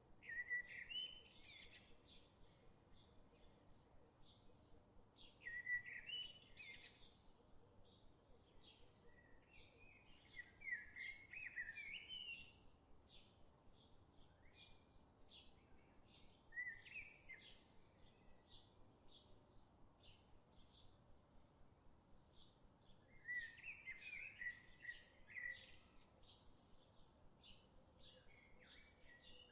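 Faint birdsong: a songbird sings short warbling phrases every few seconds, over a steady run of short high ticks.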